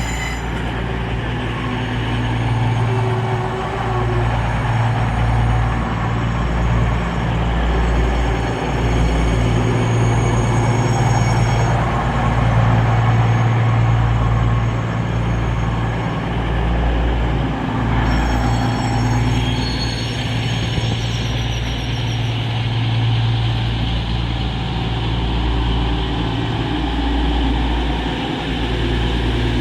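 Class 222 Meridian diesel multiple unit's underfloor diesel engines running steadily at the platform, a strong low hum, with a faint high whine that comes and goes.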